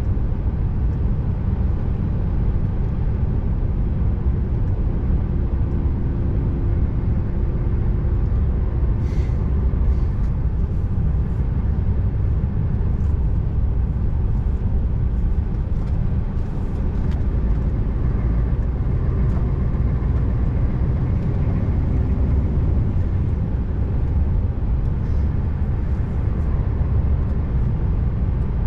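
Scania R590 truck's V8 diesel engine running under way with tyre and road noise, a steady low drone, with a few faint clicks in the middle.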